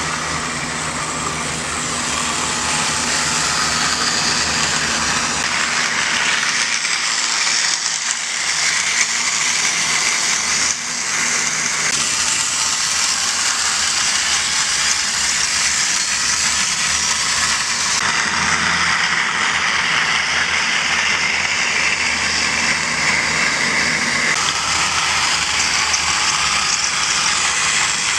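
Battery-powered TOMY Trackmaster toy train running on plastic track: a steady motor whir with wheel and gear rattle. Its tone shifts a few times as it goes round the layout.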